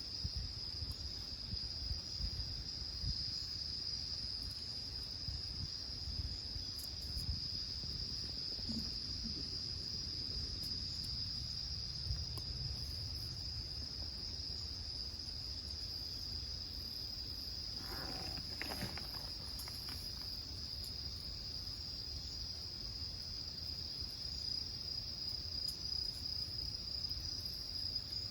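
Insects, likely crickets, keep up a steady, unbroken high-pitched chirring, with a low rumble underneath. A brief pitched call cuts in about two-thirds of the way through.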